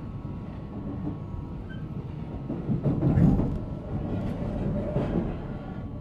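Interior sound of a JR Central 313-series electric train's motor car: a steady low rumble, with a louder knock about three seconds in.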